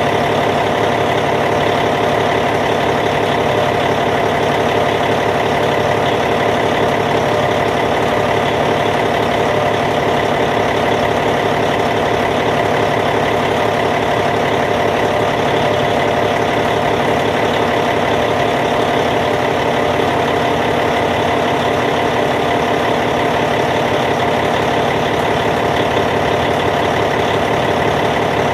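Caterpillar C15 inline-six diesel engine of a D8T dozer idling steadily, with an even, unchanging running note.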